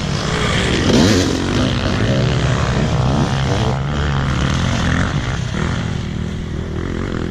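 Dirt bike engine running, with a brief rise in pitch about a second in.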